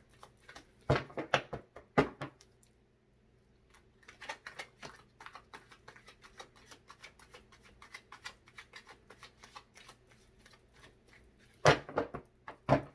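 A deck of tarot cards being shuffled by hand: a long run of quick, soft card flicks, with a few sharper slaps of the deck about a second in, at two seconds and again near the end.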